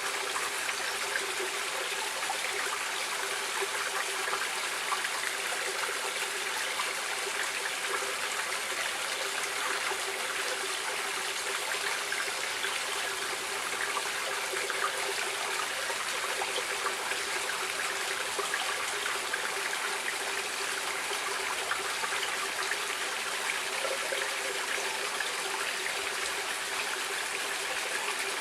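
Stream water flowing and trickling steadily, an even rushing wash with small splashes flickering through it.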